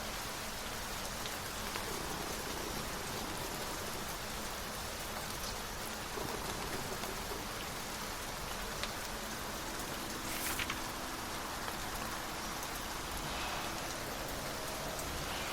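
Steady rain, an even hiss with a few faint ticks of drops, the clearest about two-thirds of the way through.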